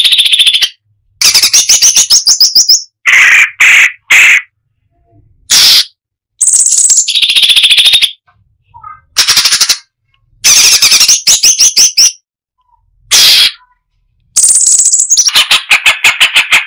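Cucak cungkok (striated bulbul) singing loudly in a quick series of dense, rapid-fire phrases, each about a second long. The phrases are made of fast repeated chattering notes with brief pauses between them, and a long run of quick notes comes near the end.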